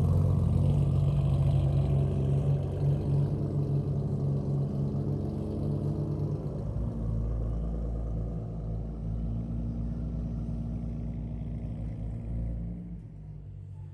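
Car engine running steadily, its sound fading away near the end.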